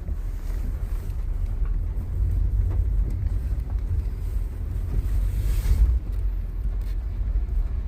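Steady low rumble of a vehicle on the move, heard from inside, with wind buffeting the microphone.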